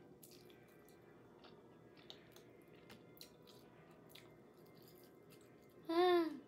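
Close-up eating sounds of barbecue-sauced chicken being chewed: faint wet chewing and lip smacks with scattered small clicks. About six seconds in, a short vocal sound that falls in pitch.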